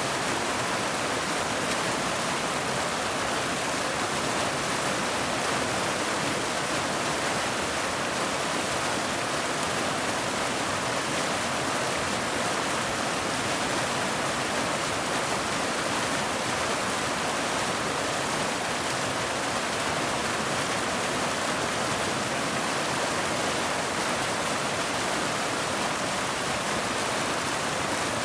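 Steady heavy rain, an even hiss with no single drops standing out and no change in level.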